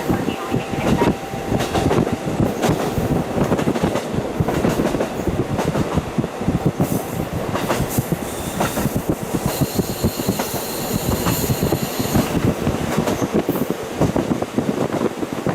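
KiHa 40 diesel railcar running along the line, heard through a fully open window: a steady rumble with the wheels clicking over the rail joints. A high-pitched squeal joins for several seconds in the middle.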